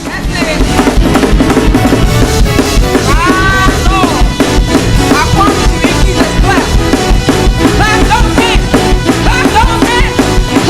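Fast, loud church praise-break music driven by a drum kit playing a quick, steady beat, with pitched instruments or voices sliding up and down above it.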